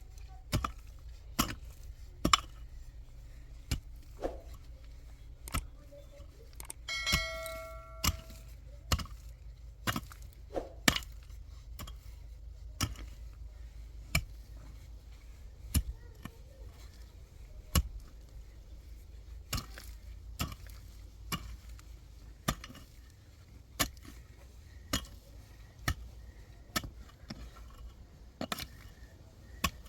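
Irregular sharp knocks or taps, roughly one or two a second, over a low steady rumble, with a brief ringing tone about seven seconds in.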